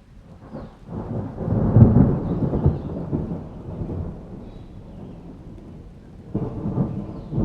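Thunder rolling over steady rain: a low rumble swells about a second in, peaks soon after and slowly fades, then a second rumble breaks out near the end.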